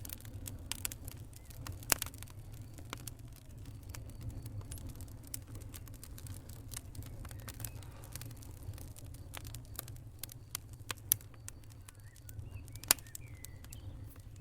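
Fire crackling: irregular snaps and pops over a low steady rumble, with a few sharper, louder pops.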